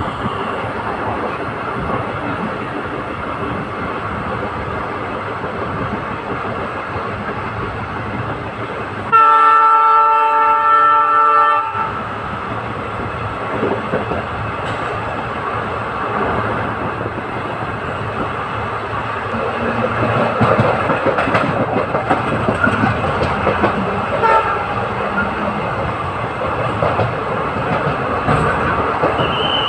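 Steady running noise of an express train heard from on board, with the rumble of the coach's wheels on the track. About nine seconds in, the locomotive's horn sounds once, a loud chord held for about two and a half seconds.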